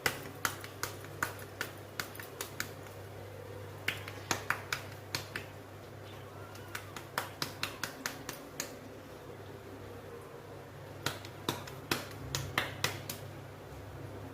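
Sharp clicks and taps of kitchen utensils, coming in irregular runs of several quick strokes with short gaps between them, over a steady low hum.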